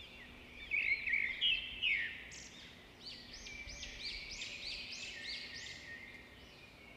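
Birds chirping and calling in quick, high arched notes. The loudest come in a cluster about a second in, followed by a run of similar repeated notes.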